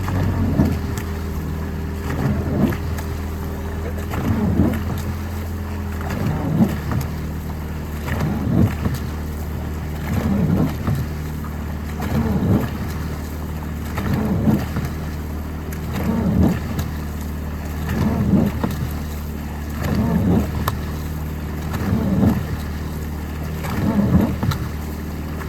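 Boat engine running with a steady low hum, under a swishing, splashing sound that swells and fades about every two seconds.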